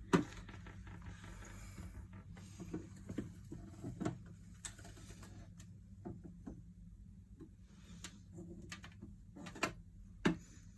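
Scattered light taps and clicks from a tarantula enclosure during feeding, irregularly spaced, with a sharper tap just after the start and another near the end.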